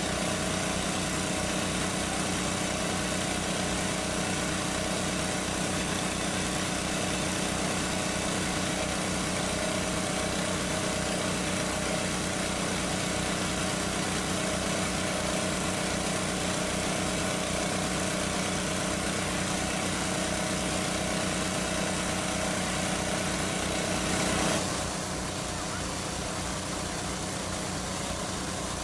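A small engine running steadily at an even speed; about three quarters of the way through, its sound changes and drops slightly.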